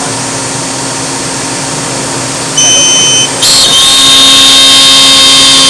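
CNC router running with a steady mechanical hum. About two and a half seconds in, a high spindle whine starts and the level jumps. Just after three seconds it becomes a louder, hissing whine that stays steady.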